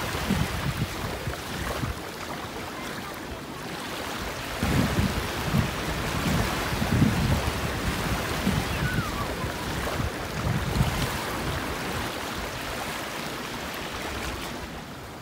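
Surf washing onto a sandy beach, a steady hiss of waves, with gusts of wind buffeting the microphone several times.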